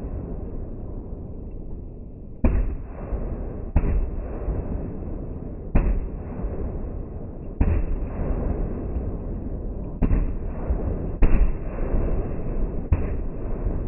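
Fireworks display: about seven sharp bangs of aerial shells bursting, one to two and a half seconds apart, over a steady low rumble.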